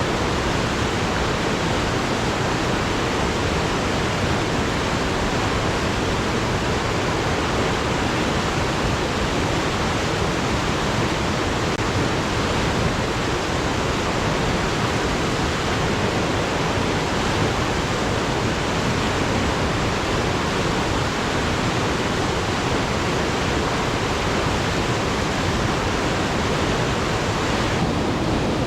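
Alpine mountain river rushing over rocks, a steady full noise of flowing water.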